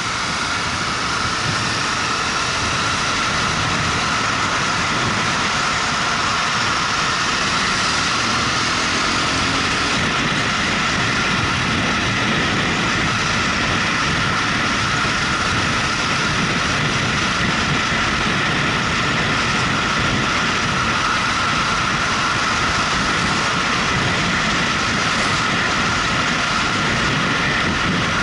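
Motorcycle riding at a steady pace: the engine running under a constant rush of wind noise on the microphone.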